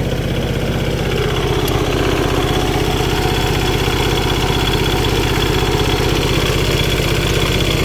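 An engine idling steadily with an even, fast pulsing beat.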